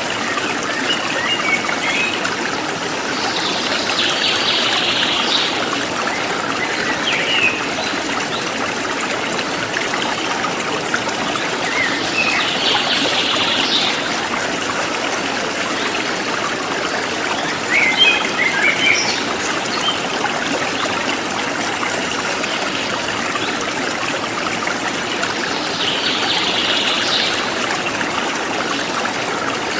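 Forest stream flowing steadily, with birds chirping here and there over it: scattered short chirps and three brief bouts of song.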